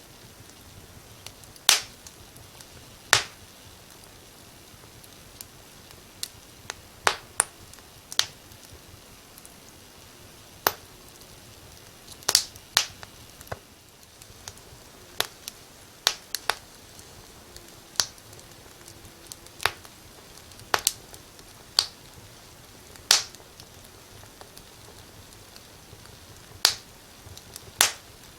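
Wood fire crackling in a fireplace: sharp, irregular pops and snaps at uneven intervals over a soft, steady hiss.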